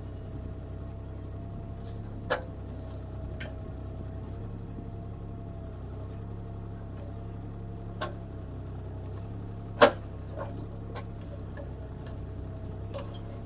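CAT 303C CR mini excavator running steadily: a low engine drone with a thin hydraulic whine over it. It is broken by a few sharp knocks as the machine works at the tree's limbs and roots, the loudest near ten seconds in.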